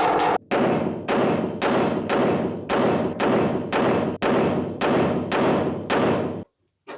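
Hammer blows on car-body sheet metal, about two a second, each strike ringing briefly. The blows stop abruptly near the end.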